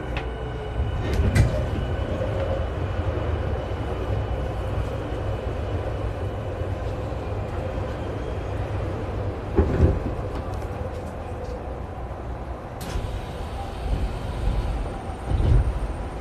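Tokyu 5000 series electric commuter train running, with a steady rumble of wheels on rail and faint steady whines from the drive equipment. Louder thuds come about a second in, about ten seconds in and near the end.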